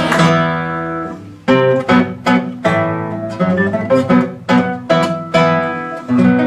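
Acoustic guitar playing a closing passage of plucked chords, each struck sharply and left to ring, the last struck about six seconds in and ringing out as the song ends.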